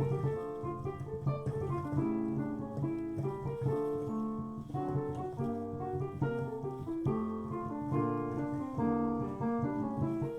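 Piano playing a fast, rhythmic frevo passage in D minor, with a melody line moving over a busy bass.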